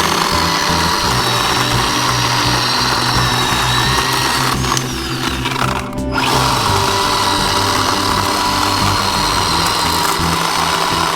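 Bauer 10-inch 20-volt cordless electric chainsaw running and cutting dry dead locust wood, a steady high motor whine. It eases off briefly about five seconds in, then runs again.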